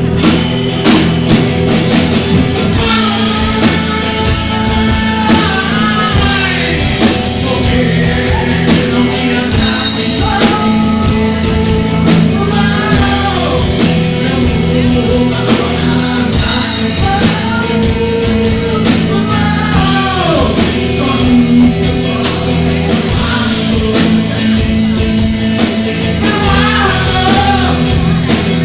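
Three-piece rock band playing live: electric guitar, bass guitar and drum kit, with a lead melody that bends up and down in pitch over steady held notes and frequent drum hits.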